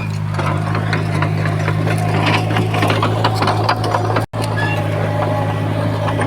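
Komatsu bulldozer's diesel engine running steadily under a low drone, with rapid rattling and clicking over it. The sound cuts out for an instant about four seconds in.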